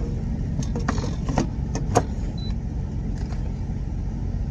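Steady low rumble of an idling truck engine, with a few sharp clicks and clatters of a container being handled as grease is poured off cooked chicken wings.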